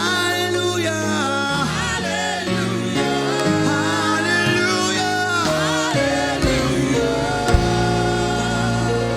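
Gospel worship music: singing over sustained keyboard chords, with a sharp click about seven and a half seconds in.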